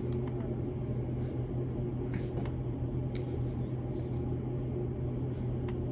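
Steady low hum with faint background hiss and a few soft clicks.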